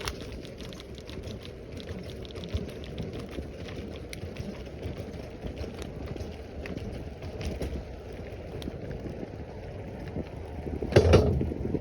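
Bicycle tyres rolling over the trail's crushed-stone surface, a steady gritty rush with scattered small ticks, mixed with wind on the microphone. A brief louder burst comes near the end.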